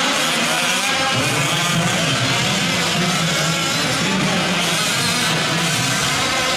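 Several 1/5-scale RC trucks' small two-stroke gas engines running together in a race, their pitches rising and falling as they rev on and off the throttle.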